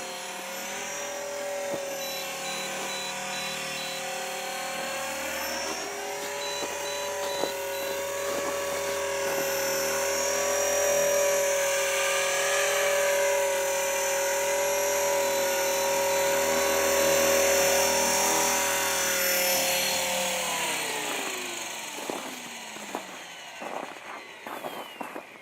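E-flite Blade 400 electric RC helicopter's motor and rotor running with a steady high whine, then winding down in pitch and fading about 21 seconds in as the rotor spools down, followed by a few light clicks.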